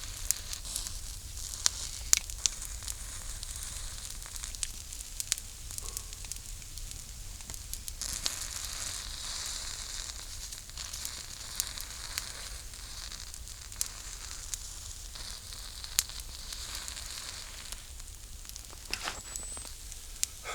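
Food sizzling over a campfire, with sharp pops and crackles from the burning wood. The sizzle grows stronger about eight seconds in.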